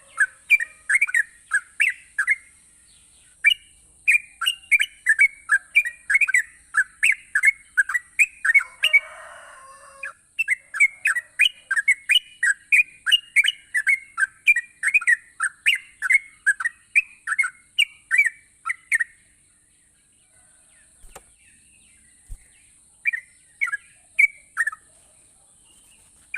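Yellow-vented bulbul (trucukan) singing: quick, repeated short chirping notes, about two to three a second. The song breaks off about 19 s in and returns in a short run near the end. A faint steady high hiss runs underneath.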